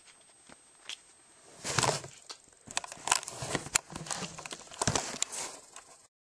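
Rustling and crinkling with a string of sharp, irregular taps, starting about a second and a half in. The sound cuts off abruptly near the end.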